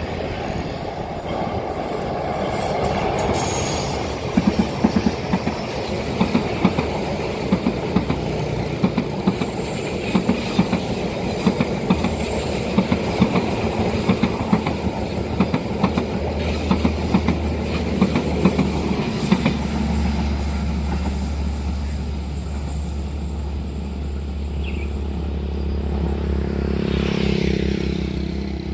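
A train passing at speed, its wheels clacking in a regular rhythm over the rail joints above a steady rumble. The clacking dies away about two-thirds of the way through, leaving a low steady hum.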